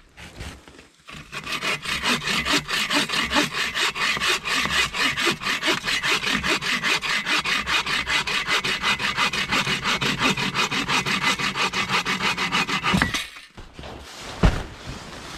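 Hand saw cutting through wood in a long run of rapid, even strokes, stopping suddenly near the end, followed by a single knock.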